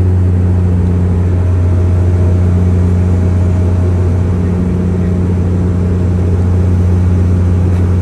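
Bombardier Q400's turboprop engines and six-bladed propellers heard from inside the cabin: a loud, steady low propeller drone with a second tone an octave above, over a constant rush of engine and air noise.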